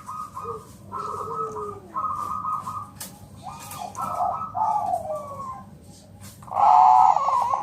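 Bangkok-type zebra dove (perkutut) cooing its song: short, rolling, trilled phrases repeated about once a second, with a few lower falling notes early on and the loudest phrase near the end.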